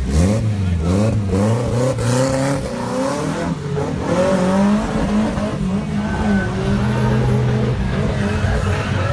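Race car engine running hard, its pitch climbing and dropping back several times as it goes through the gears, then holding steadier.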